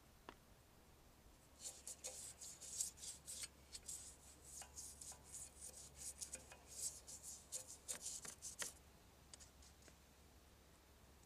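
Old toothbrush scrubbing bleach onto a motorbike's metal exhaust pipe: a run of quick, rasping brush strokes that starts about two seconds in and stops a few seconds before the end.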